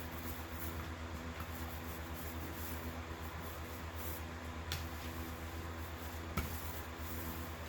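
Steady low electrical or machine hum in a small workshop, with faint hiss and two short sharp clicks, one about halfway through and one near the end.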